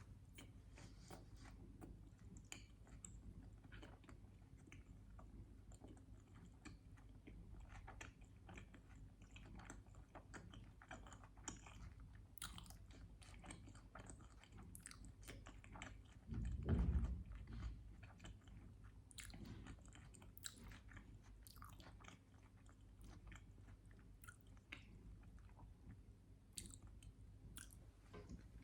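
Close-miked chewing of a sandwich with syrup: many quiet, irregular wet, sticky mouth clicks and smacks. About halfway through there is a louder dull thump lasting about a second.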